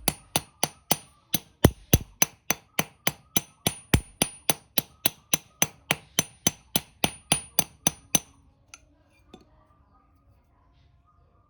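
A hammer striking metal in quick, even blows, about three to four a second, each with a bright metallic ring, as the knife steel is hammered; the blows stop about eight seconds in.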